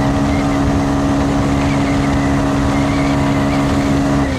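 Motorcycle engine running at steady revs while riding, heard from on the bike. About four seconds in, the revs drop.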